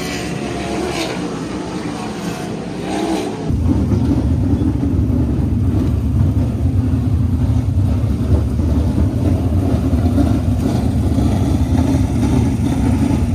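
Sprint car engines running on the track, coming in suddenly and loud about three and a half seconds in and holding steady after that. Before that there is only quieter background noise.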